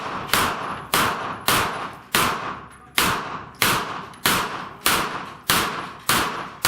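Pistol-calibre gunfire: a steady string of about eleven shots, roughly one every 0.6 s, each with a short echoing tail.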